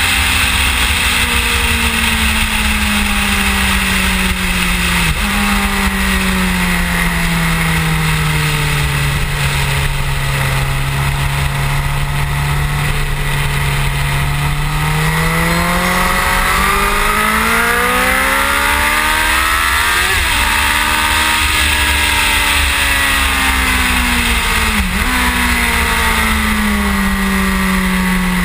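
Suzuki GSX-R1000's inline-four engine heard from onboard at speed, its note falling slowly, holding low, then climbing and falling again with the throttle, broken sharply three times. Constant wind rush and road noise over the camera.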